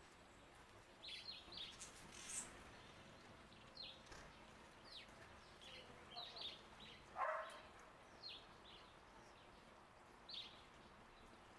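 Garden birds chirping faintly in short, quick downward notes scattered through, with one lower, louder sound about seven seconds in, over the faint steady hiss of a flowing bird-bath fountain.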